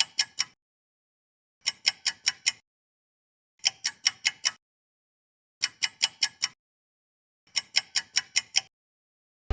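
A clicking sound effect added in editing: short runs of about five quick, sharp ticks, repeated every two seconds or so, with dead silence between the runs.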